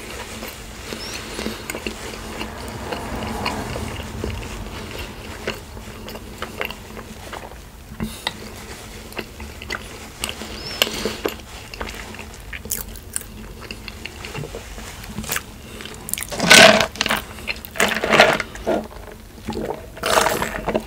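Close-miked eating sounds: chewing and biting with wet, clicking mouth noises, and several louder noisy bursts in the last few seconds.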